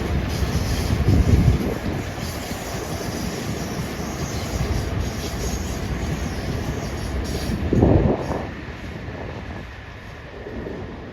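A passenger train rolls over the rail junction and viaduct with a steady rumble of wheels on the rails. Two heavier low surges come about a second in and around eight seconds in, and the sound eases off near the end.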